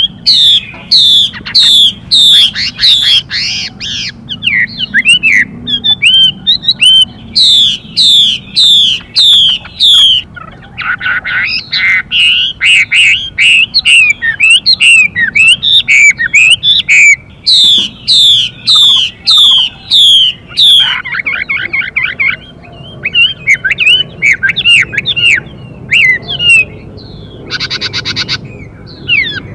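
Chinese hwamei (họa mi) singing a fast, loud series of repeated down-slurred whistled notes, changing phrase often. The song is interrupted several times by short harsh buzzy calls: a female hwamei's hissing 'xùy' call, which excites the male to sing.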